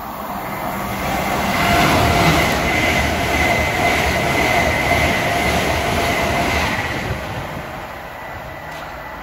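An LNER Azuma high-speed train passing through the station without stopping. Its rushing noise rises about a second in and holds loud for about five seconds with a steady whine, then fades as it draws away.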